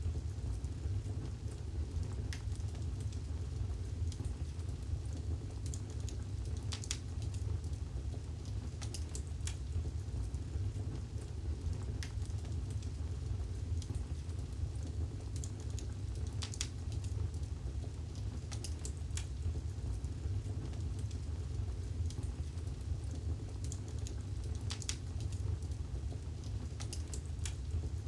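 Wood fire burning in a fireplace: a steady low rumble of the flames with scattered, irregular sharp crackles and pops from the burning logs.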